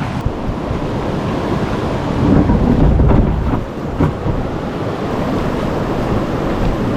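River water rushing over a rock dam and its rapids, a steady low roar.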